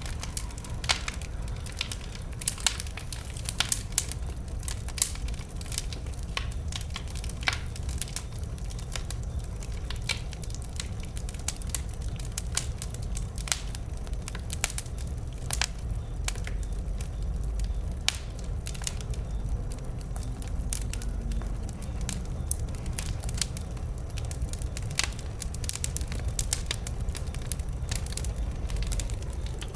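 Bonfire of wood logs burning, with irregular sharp crackles and pops over a low steady rumble.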